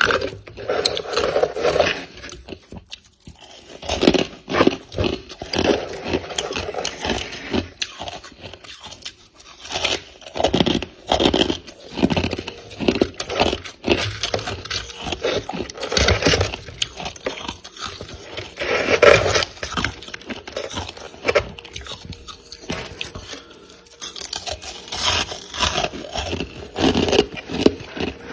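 Freezer frost being bitten and chewed close to the microphone: dense, irregular crisp crunches in clusters, with short pauses.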